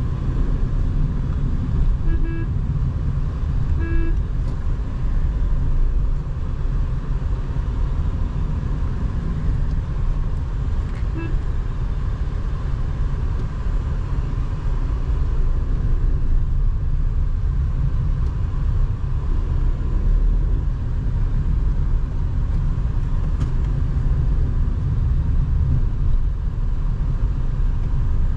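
Steady low engine and road rumble of a Tata Nexon driving in traffic. Short car-horn beeps sound about two seconds in, about four seconds in and about eleven seconds in.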